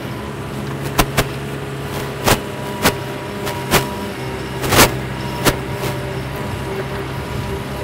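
McCormick X10.55M tractor's engine running steadily under load while pulling a disc harrow through the soil. Irregular sharp knocks and clanks come every second or so, the loudest nearly five seconds in.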